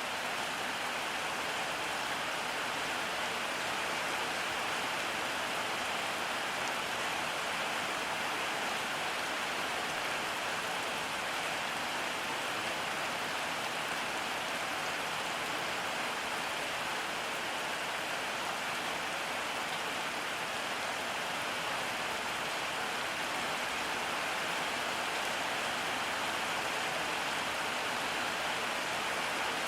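Steady rain falling, a continuous even hiss of drops with no pauses or changes.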